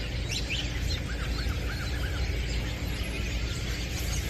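A large number of birds calling and chirping at once. About a second in, one bird gives four quick arching notes in a row. A steady low rumble runs underneath.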